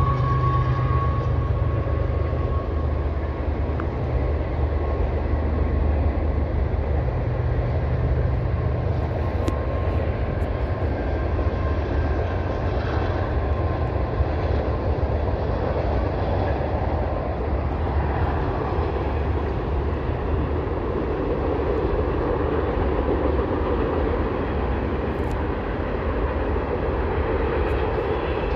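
A train rolling past at a steady level, a continuous rumble of wheels on rail.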